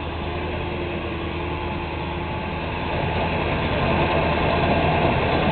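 A heavy vehicle engine running steadily, growing a little louder about halfway through.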